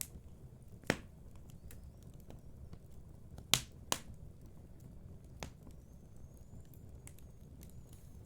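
Wood fire crackling in a fireplace: a low steady rumble of flames with scattered small ticks and a few sharp pops, the loudest about a second in and two close together about three and a half seconds in. A faint thin high whistle runs through the second half.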